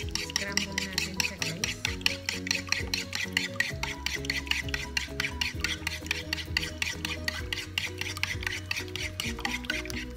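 Spoon beating eggs in a bowl: quick, even scraping strokes against the bowl, several a second.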